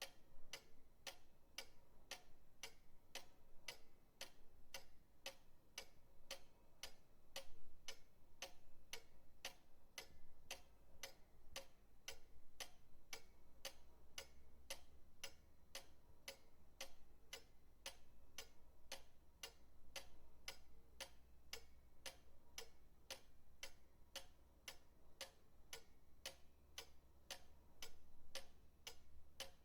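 Pendulum clock ticking steadily, about two ticks a second, faint and even.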